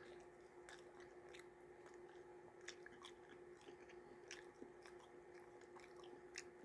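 Faint chewing of a mouthful of pizza, with scattered small mouth clicks and smacks.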